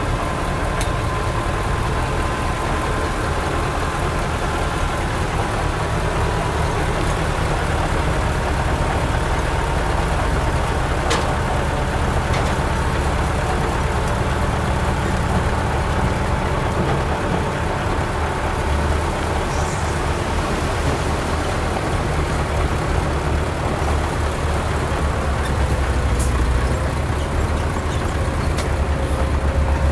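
Heavy construction machine's diesel engine running steadily under load, with a thin whine that slowly drops in pitch and a few faint sharp clicks.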